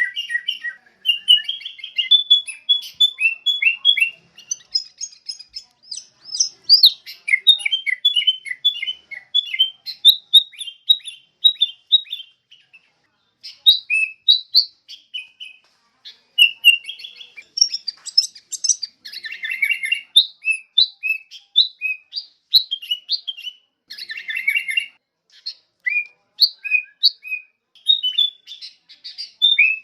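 Sooty-headed bulbul (kutilang) song: quick runs of short chirping notes that slide up and down, with a couple of brief pauses about halfway through.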